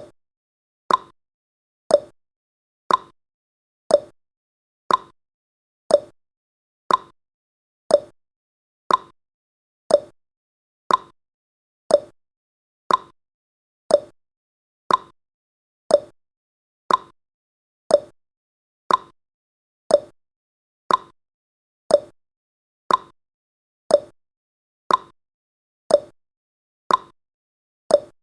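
Clock-style tick-tock sound effect of a countdown timer: one sharp tick every second, alternating between a higher tick and a lower tock.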